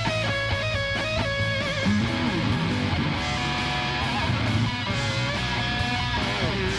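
Live rock band playing, led by an electric guitar solo with held and bent notes over bass and drums.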